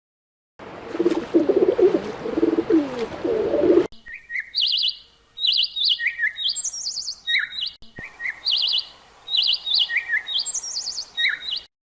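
A small bird singing repeated short, high chirping phrases that are quick and stepped in pitch. Before it there is a brief, lower wavering animal call.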